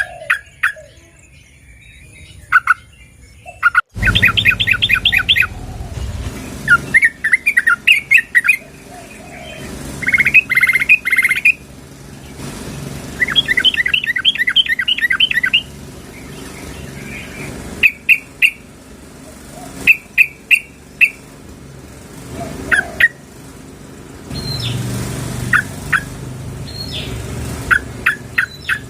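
Yellow-vented bulbul (trucukan) calling: several quick bubbling runs of notes in the first half, then single sharp notes spaced a second or more apart. It is offered as a female's call that draws males in.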